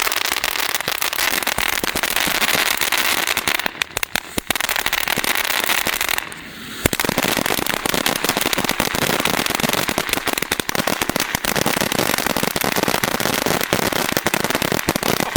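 Sunwing 'Noisy Glitzy' safe-and-sane fountain firework going off with dense, rapid crackling and popping. It thins briefly about four seconds in and drops out for half a second a little past six seconds before crackling on.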